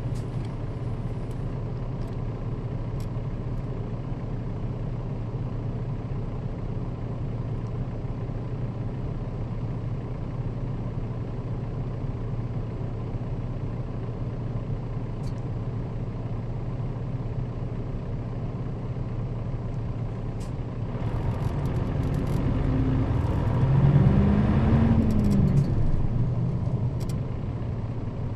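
Nissan Diesel KL-RA552RBN bus heard from inside the cabin, its diesel engine humming steadily while under way. About 21 seconds in the engine grows louder, its revs rise and fall over a couple of seconds, and then it settles back to a steady hum near the end.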